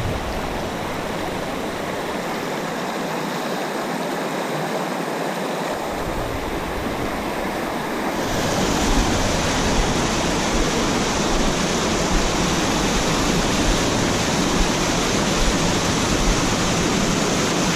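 Small mountain stream rushing and splashing over rocks between pools, a steady rush of water that grows louder and brighter about eight seconds in.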